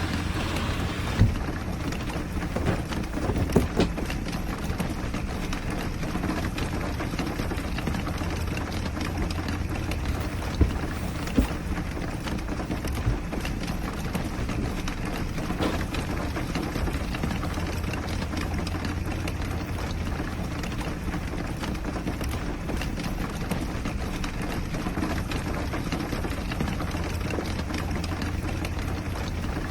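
Steady rain falling on the roof of a small tricycle camper, an even patter with a low drumming underneath. A few sharper knocks come in the first dozen seconds.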